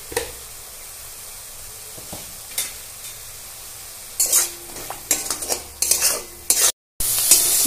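Spice paste of mustard, poppy seed and onion sizzling in oil in a kadai, with a few light clicks. From about four seconds in a spatula scrapes and stirs it around the pan. The paste is at the stage of being fried down until the oil separates.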